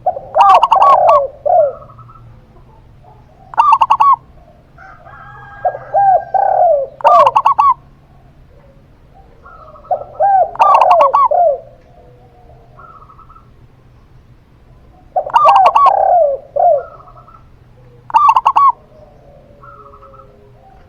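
Zebra dove and spotted dove cooing close to the microphone. Loud, repeated phrases of curved coos come about every two to four seconds, six in all.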